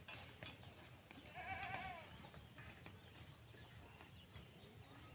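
One short animal call about a second and a half in, rising then falling in pitch, against faint outdoor quiet.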